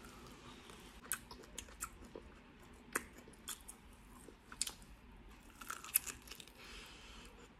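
Close-up mouth sounds of a person biting into and chewing a giant cooked tiger prawn, with sharp, quiet clicks and smacks coming every second or so at irregular intervals.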